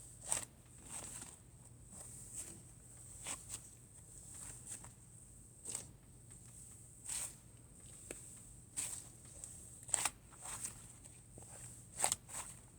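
Cloud slime being handled, pressed and stretched: irregular soft crackles and small pops, with a few louder ones near the start and about ten and twelve seconds in.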